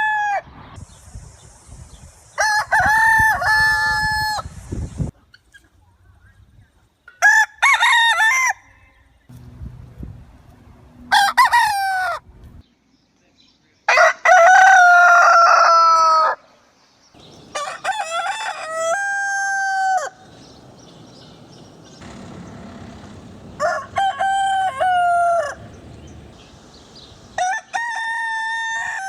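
Rooster crowing again and again, about seven cock-a-doodle-doo calls a few seconds apart, each a second or two long and falling in pitch at the end.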